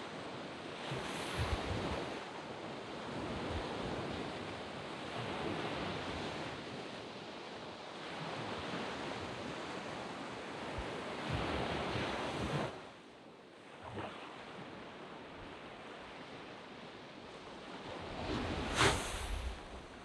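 Small waves washing onto a sandy beach in a steady wash that swells and falls. It quietens abruptly a little past halfway. Near the end one wave breaks sharply, the loudest moment.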